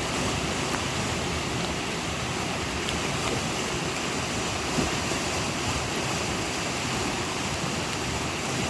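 The Hoh River rushing, a steady, unbroken wash of flowing water.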